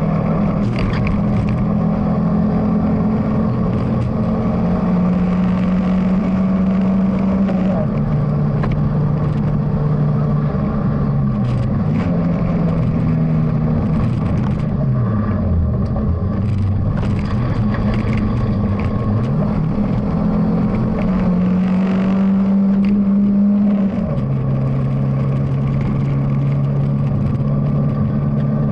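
BMW E30 316i four-cylinder rally engine heard from inside the cabin, pulling hard through the gears on a special stage. Its pitch holds high, steps down at gear changes about 8 and 24 seconds in, and twice drops away and climbs again around 15 and 19 seconds as the driver lifts for bends and accelerates out. A few brief knocks come through over the engine.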